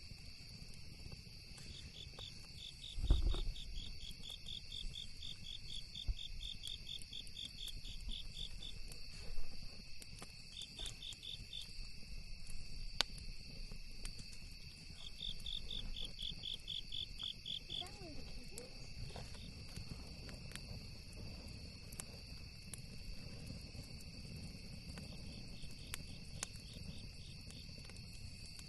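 Crickets and other insects chirping: a steady high chorus with runs of rapid pulsed trills that come and go. Faint crackling clicks of a campfire are scattered throughout, over a low rumble, with one louder low thump about 3 seconds in.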